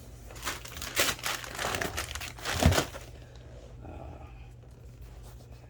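Package wrapping crinkling and rustling as parcels are handled, in irregular bursts, with a thump about two and a half seconds in; softer rustling after that.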